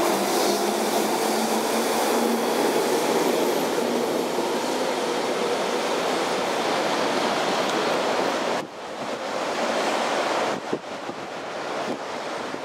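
SkyTrain running through the station: a loud, steady rail rumble with a faint tone over it, cutting off suddenly about nine seconds in to quieter wind noise on the microphone.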